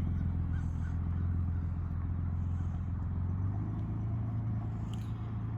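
Exhaust note of a 2008 Ford F-150's 4.2 V6 through its new exhaust tip: a steady low hum that steps up slightly in pitch about three and a half seconds in, growing a little fainter.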